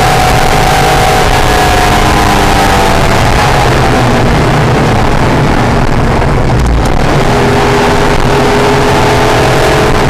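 Acura NSX V6 engine at speed on a race track, with heavy wind and road noise. The engine note falls over the first few seconds as the car slows, dips briefly around the middle, then climbs steadily as the car accelerates again.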